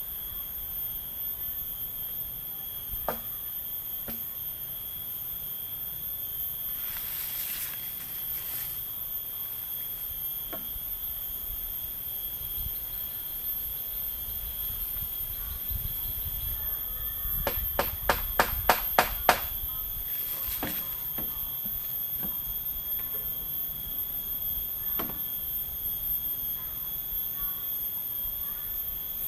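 Steady high-pitched drone of forest insects at several pitches. Over it come a few scattered clicks and, about two-thirds of the way through, a quick run of about seven sharp knocks, roughly four a second.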